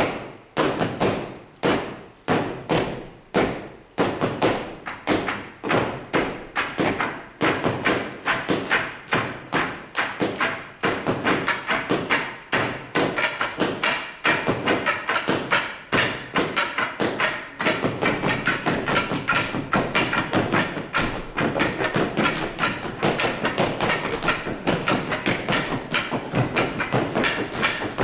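Percussion quartet knocking wooden tool handles in rhythm: sharp wooden thuds about twice a second at first, the pattern growing denser until it becomes a fast, continuous clatter from about two-thirds of the way in.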